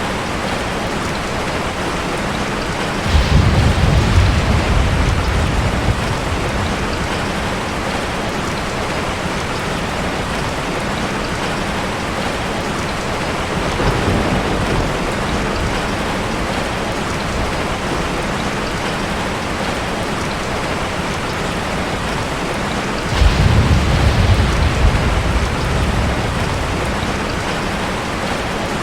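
Heavy rain falling steadily, with rolls of thunder rumbling low about three seconds in and again near the end, and a fainter rumble midway.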